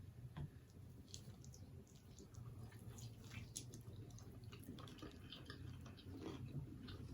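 Faint close-up chewing: soft wet mouth clicks and smacks scattered through, over a steady low hum.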